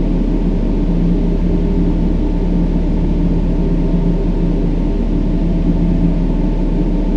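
Steady brown noise, a deep even rushing, with a low held hum of a few steady tones under it.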